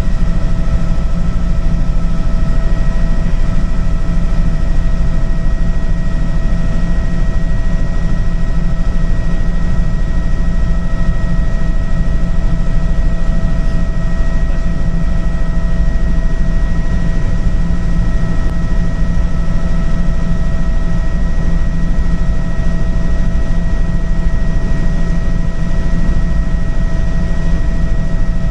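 Helicopter in flight, its turbine engine and rotor running steadily: a loud, even low rumble with a constant high whine over it.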